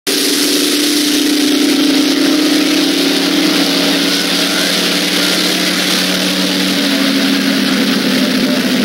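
Drag racing cars' engines running down the strip, a steady loud drone whose pitch steps down slightly a couple of times, over a broad hiss.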